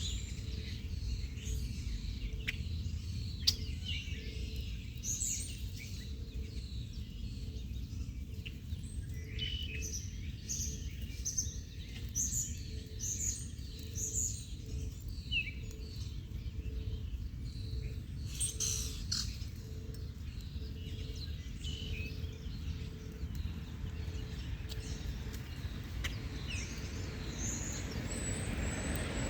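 Small birds chirping and calling in short, scattered notes over a steady low background rumble.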